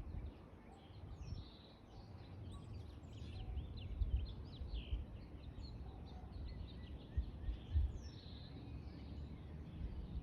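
Birds chirping, with many short calls overlapping through the whole stretch, over a low rumble that surges louder a few times.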